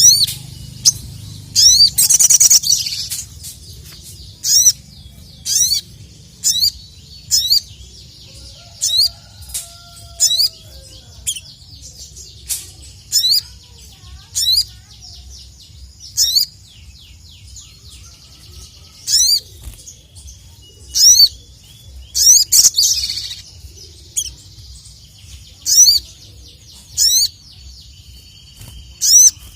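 Ruby-cheeked sunbird (sogok ontong) singing: sharp, high, quickly sweeping chirps repeated about once a second, broken twice by a longer rapid twittering run, about two seconds in and again after about 22 seconds. A low steady hum lies underneath.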